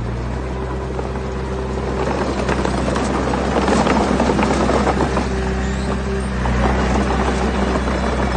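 Diesel engine of heavy machinery running steadily, with a dense clatter of stones tumbling and grinding that swells from about two to six seconds in.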